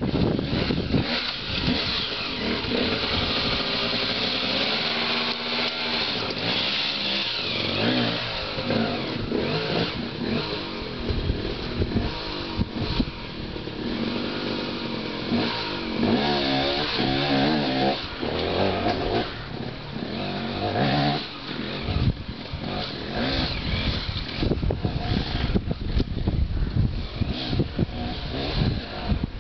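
Dirt bike engine revving up and down in uneven bursts, its pitch wavering as the throttle is worked over rough ground, with scattered sharp knocks mixed in.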